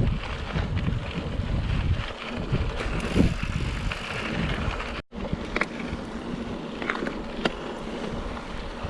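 Wind on the microphone and rumble from a bicycle being ridden. After an abrupt cut about five seconds in, the rumble gives way to a quieter steady background with a few sharp clicks.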